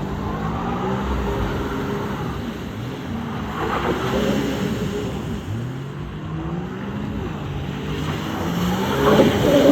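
Engine running under changing throttle, its pitch rising and falling several times as it accelerates and eases off.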